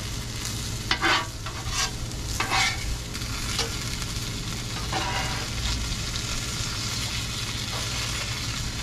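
Sausages and shredded food sizzling on a flat-top griddle while a metal spatula scrapes and turns them. There are a few sharp scrapes in the first three seconds.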